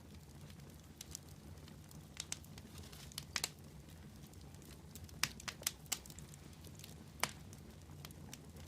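Wood fire crackling: a low steady rumble of flame with scattered sharp snaps and pops, which come in small clusters about two to three and a half seconds in and again around five to seven seconds in.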